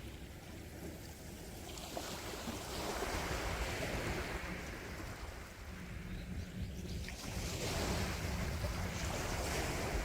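Sea waves breaking and washing on a shore: a steady low rumble of surf with two swells, one building about two seconds in and another about seven seconds in.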